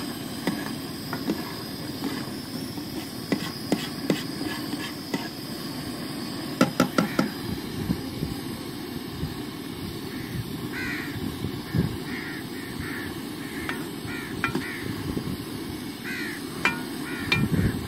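A bird calling over and over in short, arched cries through the second half, over a steady low rumble with a few scattered knocks, a small cluster of them about seven seconds in.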